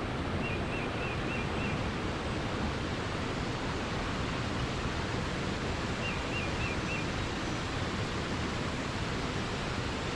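Steady rush of flowing forest water. Over it, a small bird sings a quick run of four or five chirping notes twice: about half a second in and again about six seconds in.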